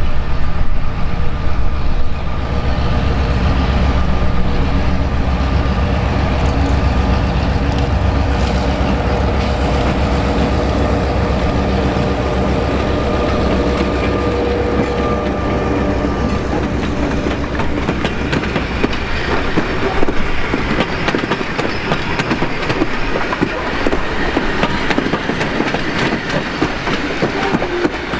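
Diesel locomotive hauling a rake of wooden passenger carriages past. A deep engine rumble dominates the first half as the locomotive approaches and goes by. From about two-thirds in, the engine fades and the clatter of carriage wheels over the rail joints takes over as the carriages roll past.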